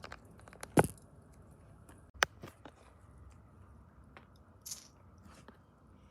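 A few scattered clicks and knocks over a faint steady hiss, the loudest about a second in and another just after two seconds, with a short rustle near the end.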